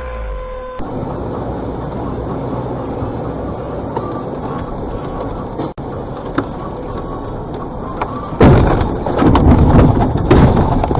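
Steady road and engine noise of a car heard from inside the cabin. About eight seconds in a sudden, much louder rough noise breaks in with several sharp knocks and lasts to the end.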